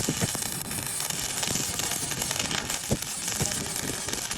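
Electric arc welding on a tractor wheel plate: a steady crackling hiss from the arc, with irregular sharp pops.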